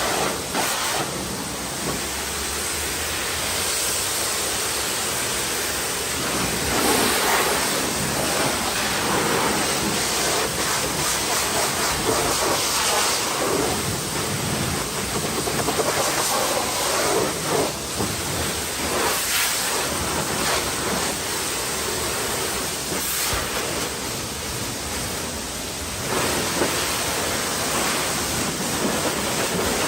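Pressure washer spraying water onto a car's body, a steady hiss that swells and fades as the jet sweeps across the panels.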